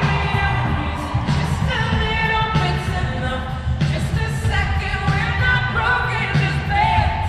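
Live pop concert music: singing over a full band with a strong, steady bass.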